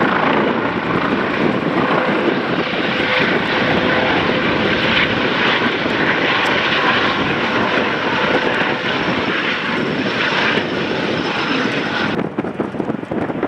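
Police helicopter's engines and rotor running as it lifts off, mixed with heavy wind noise on the microphone. The higher part of the sound cuts off abruptly about twelve seconds in.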